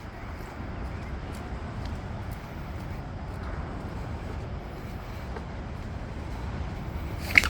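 Steady low rumble with faint ticks of footsteps on a wet path. Near the end comes one sharp, short squeak as a shoe slips on the wet, slippery ground.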